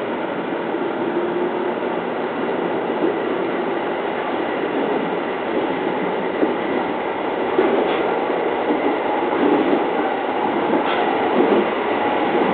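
JR East 209 series electric train running through a tunnel, a steady rumble of wheels on rail heard from the front of the train, growing a little louder, with a couple of faint clicks in the second half.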